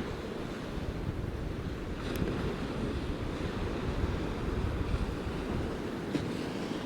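Heavy storm surf of the North Sea rushing and breaking, with gale-force wind gusting over the microphone in a low, uneven rumble.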